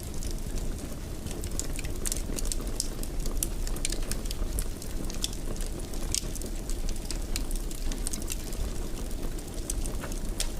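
Wood fire burning in a fireplace: a steady low rumble of the flames with frequent small, sharp crackles and pops at irregular intervals.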